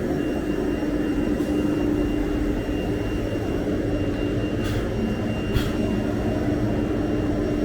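Steady mechanical drone of workshop machinery running, a constant hum with one steady low tone; a couple of faint ticks about five seconds in.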